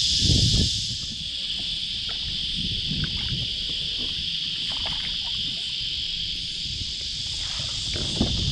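A steady, high-pitched drone of an insect chorus from the bank. Under it are low thumps and rustles, loudest about the first second.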